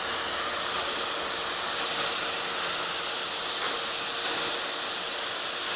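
Automatic car wash water jets spraying, a steady hiss with a faint steady hum underneath.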